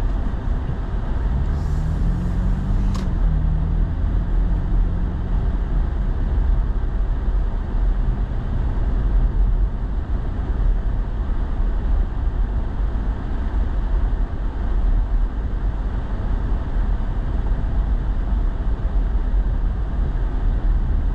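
Steady engine and road noise heard inside a pickup truck's cab while driving, with a short rising tone from the engine about two seconds in and a single click about a second later.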